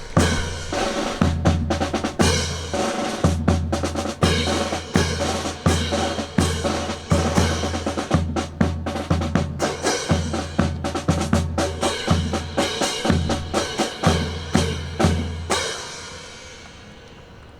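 Percussion performance: fast snare-drum strikes and rolls with rimshots over a bass-drum pulse and repeated deep bass notes. It stops abruptly about two seconds before the end.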